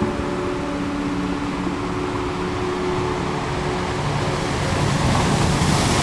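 Ocean surf with a wave swelling and washing in near the end, under soft held tones of ambient music.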